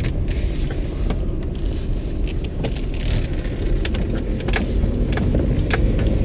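Hyundai car heard from inside the cabin while driving: a steady low rumble of road and engine noise, with scattered sharp clicks and rattles.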